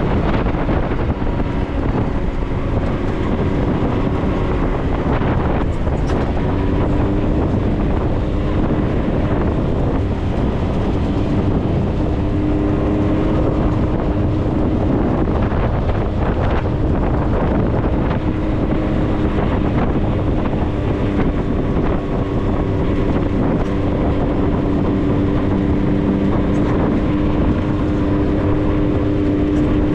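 Off-road 4x4's engine running at a steady, moderate speed while driving, with a low rumble and wind buffeting the microphone.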